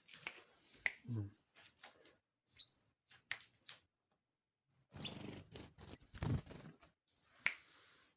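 Small bird chirping in short high-pitched calls, with a run of quick notes about five seconds in, and a few sharp clicks in between.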